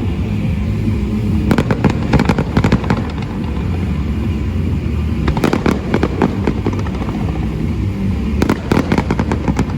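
Fireworks crackling in three quick volleys of sharp pops, about a second, five seconds and eight and a half seconds in, over a steady low rumble.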